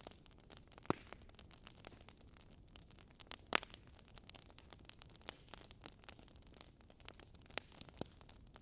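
Wood fire crackling in a fireplace: a steady patter of faint small crackles, with a few louder pops, the loudest about three and a half seconds in.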